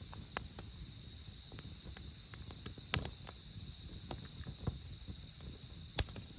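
Wood fire crackling, with scattered sharp pops; the two loudest come about three and six seconds in. Night insects trill steadily over it, high-pitched and pulsing.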